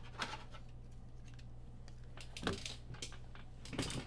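Scattered light clicks and taps, a little louder about two and a half seconds in and again near the end, over a steady low electrical hum.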